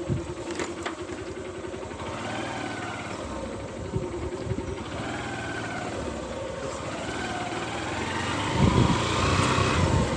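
Motorcycle engine running while being ridden, its pitch rising and falling with the throttle and getting louder near the end.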